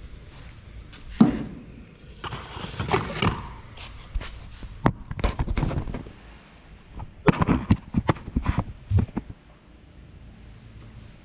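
Irregular knocks and clatter from handling plastic quart oil bottles at the engine's oil fill tube, with a short rushing noise about two seconds in.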